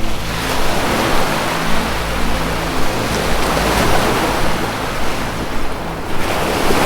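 Ocean waves washing in, one surge building right at the start and another about six seconds in, over a low, steady sustained music drone.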